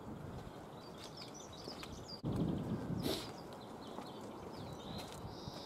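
Quiet outdoor background with birds chirping faintly now and then, and a brief burst of noise a little over two seconds in that lasts about a second.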